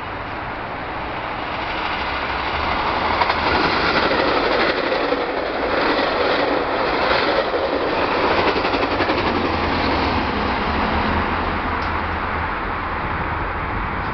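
Metra commuter train with bilevel gallery cars passing close by at speed, wheels rumbling and clacking on the rails. It grows louder over the first few seconds as the cars go by and eases off a little near the end.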